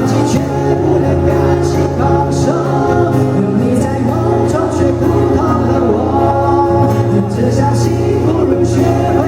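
Live band playing a song with singing, over held bass notes and a regular beat.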